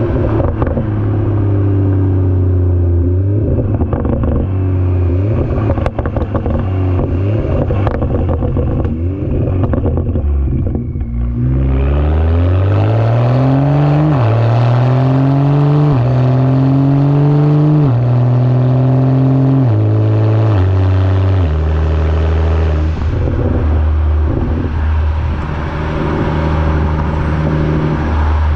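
BMW 335i turbocharged inline-six through a resonator- and muffler-delete exhaust. It burbles at low revs with a spell of crackling pops, then accelerates hard about twelve seconds in, rising in pitch through several quick upshifts before settling into a steady cruising drone.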